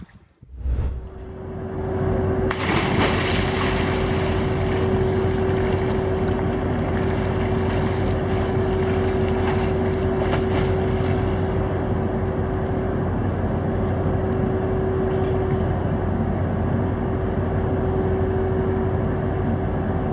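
A motor running steadily with a constant droning hum and a rushing noise, starting after a brief break near the beginning and building over the first couple of seconds.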